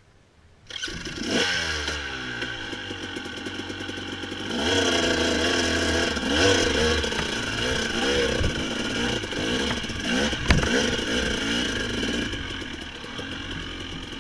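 Dirt bike engine revving under load, its pitch rising and falling repeatedly as the throttle is worked on a climb. It starts suddenly under a second in and gets louder about four and a half seconds in, with a sharp knock about ten and a half seconds in.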